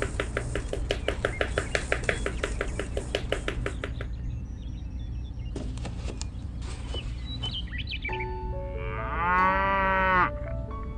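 A cow's single long moo, rising and then falling in pitch, from about eight to ten seconds in, the loudest sound here. Before it comes a fast, even run of clicks lasting about four seconds, with a low steady hum underneath.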